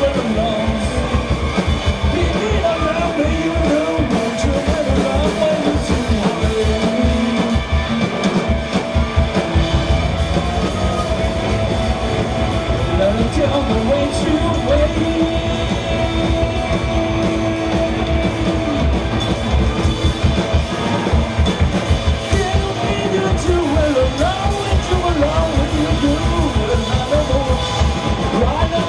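Live rock band playing loud: drum kit keeping a dense, driving beat under bass and electric guitars, with wavering, bending melodic lines over the top.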